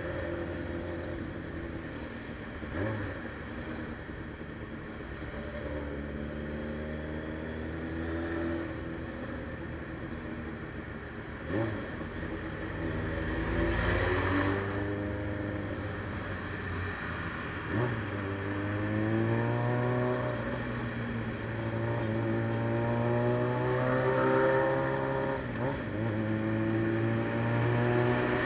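Suzuki Bandit 600's carbureted inline-four on a straight-through exhaust pulling through the gears. The engine note climbs, then drops with a short sharp knock at each shift, about four times.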